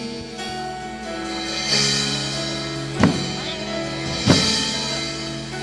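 Worship band playing instrumentally between sung lines: held keyboard chords, with two drum hits about three seconds in and a second later.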